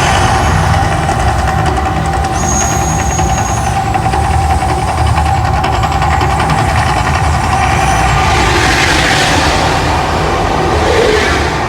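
Mirage Hotel volcano show eruption: a loud, continuous deep rumble with a steady hum over it, played through the show's sound system.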